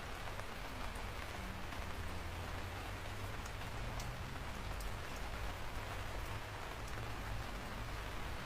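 Steady rain falling, with scattered individual drops ticking sharply through the hiss and a steady low rumble underneath.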